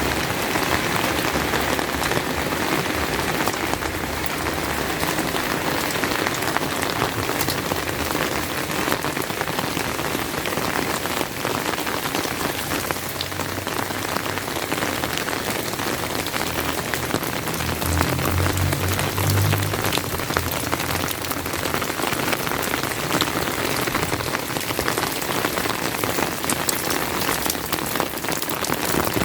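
Steady rain falling, with many single drops ticking close by. About eighteen seconds in, a low rumble lasts a couple of seconds.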